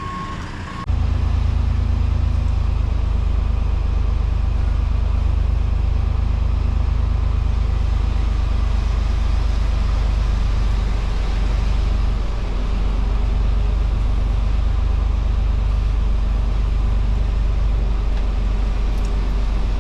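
Semi truck running: a steady, heavy low rumble that starts abruptly about a second in.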